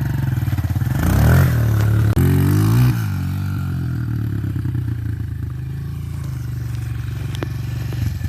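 Dirt bike engine running close by. It revs up about a second in and again between two and three seconds, then settles into steady running at a lower pitch.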